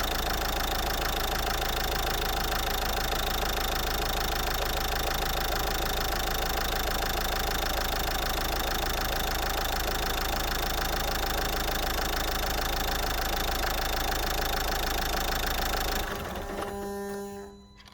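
Renault 1.5 dCi four-cylinder common-rail turbodiesel, with about 302,000 km on it, idling steadily, then switched off about 16 seconds in, the sound dying away over a second or so.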